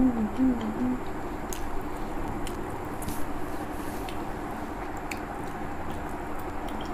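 Close-miked eating sounds: chewing and small wet mouth clicks and smacks from eating a soft poached egg by hand, with a brief hummed 'mm' in the first second.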